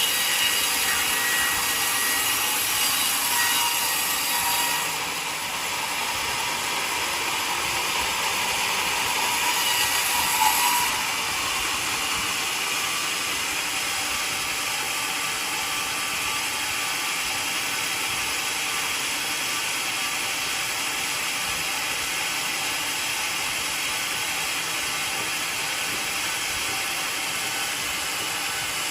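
A sawmill cutting a mahogany log, a steady mechanical hiss of the blade in the wood that drops a little about five seconds in and changes again about eleven seconds in.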